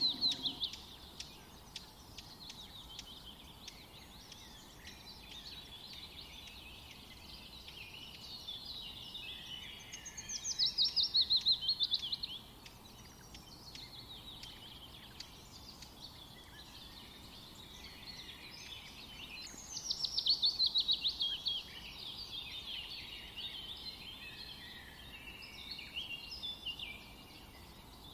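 Songbirds singing: steady high chirping and twittering, with two louder songs of rapid notes falling in pitch, about ten seconds in and again about twenty seconds in.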